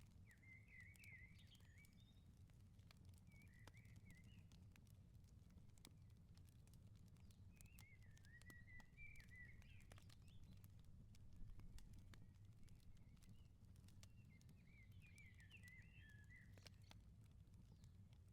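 Faint wood fire crackling with small scattered pops over a steady low rumble, while a songbird twitters in four short warbling phrases.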